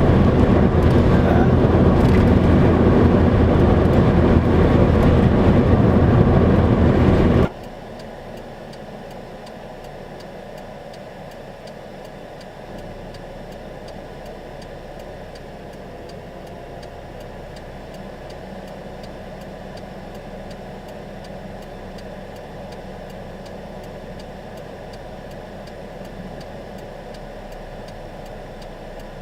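Loud steady noise heard from inside a vehicle, rain or road noise, cuts off abruptly about seven seconds in. A much quieter steady vehicle hum follows.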